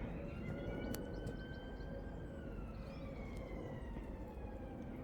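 A siren wailing slowly, its pitch rising for about two seconds and then falling, over a steady hiss of rain.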